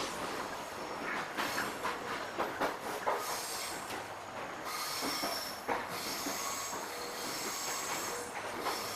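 Suburban electric train running on the rails, its wheels clicking over rail joints in the first few seconds. From about three seconds in, a high wheel squeal comes and goes over the running noise.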